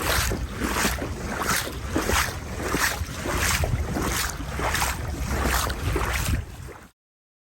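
Legs wading through knee-deep floodwater: a swish and splash with each stride, about every two-thirds of a second, over wind rumbling on the microphone. It cuts off suddenly near the end.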